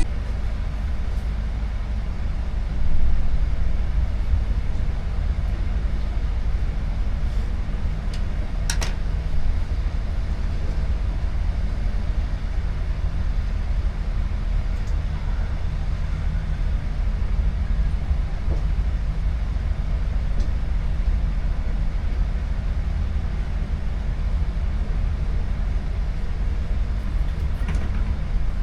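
A boat's engine running steadily, a continuous low drone, with a brief knock about three seconds in and a sharp click near nine seconds.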